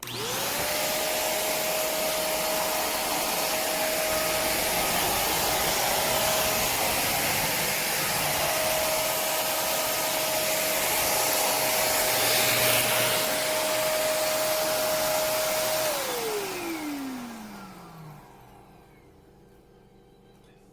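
Corded stick vacuum motor switched on, its whine climbing quickly to a steady high pitch over rushing air. It runs for about sixteen seconds, then is switched off and the whine falls away as the motor spins down.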